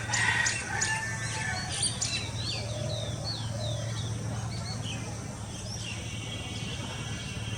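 Small birds chirping: a quick run of short, curling chirps in the first half, then a thinner high trill near the end, over a steady low hum.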